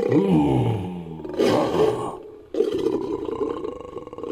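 Layered creature roar sound effect for an orangutan-like ape, mixing a human voice with ape and big-cat roars. It gives three calls: one falling in pitch at the start, a short one about a second and a half in, and a long steady one starting past halfway.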